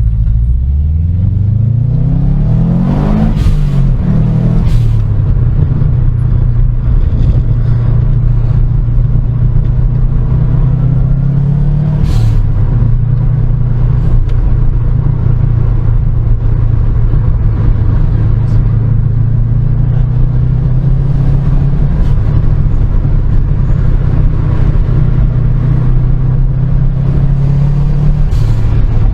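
Car engine accelerating hard, its pitch climbing and dropping back at two quick upshifts in the first five seconds. It then runs at a steady cruising speed, with another shift about twelve seconds in.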